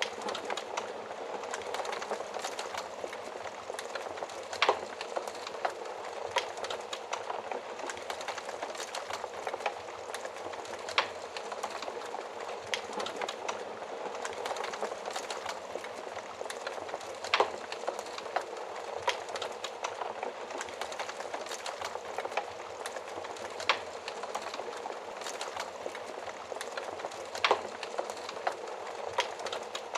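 Wood fire burning in an oven fireplace: a steady soft crackle and hiss, with a sharp pop every few seconds.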